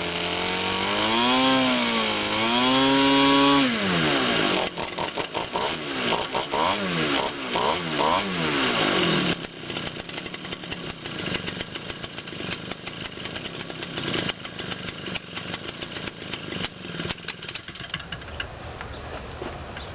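Quatra 52cc two-stroke gas model-aircraft engine running, its throttle revved up and down in several swells, then in quicker swings. About nine seconds in it drops to a rough, uneven idle.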